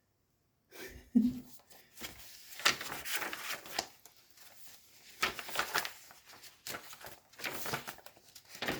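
Paper pages of a thick handmade journal being turned and handled, making irregular rustles and small crinkles that begin just under a second in.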